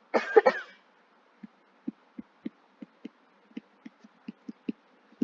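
A brief, louder burst in the first second, then a run of light, irregular taps, about two or three a second.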